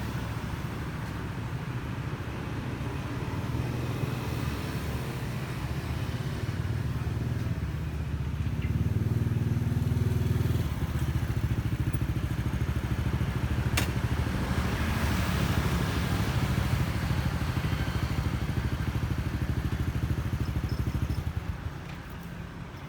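Yamaha NMAX scooter's single-cylinder engine running under way, with road and wind noise. It grows louder about a third of the way in, holds steady, then drops off shortly before the end as the throttle eases. There is a single sharp click about midway.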